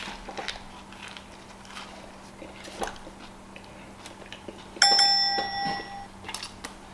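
Faint clicks and smacks of a person biting and chewing a sandwich, then about five seconds in a single bell-like ding that rings and fades over about a second.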